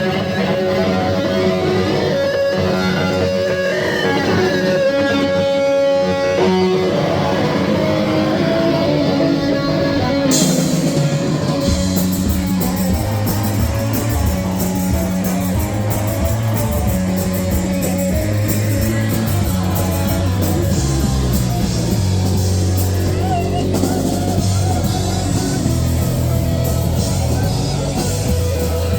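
Rock band playing live. Guitar notes ring out alone at first; about ten seconds in, the drums crash in with cymbals, and the bass joins, and the full band carries on.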